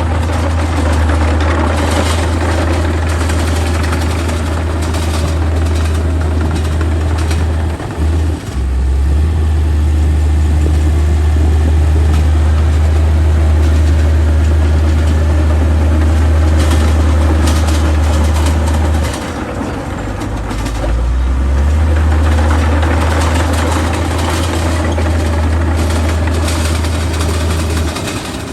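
Heavy diesel engine of earthmoving machinery running steadily with a deep drone, dipping briefly about eight seconds in and again for a couple of seconds a little past the middle.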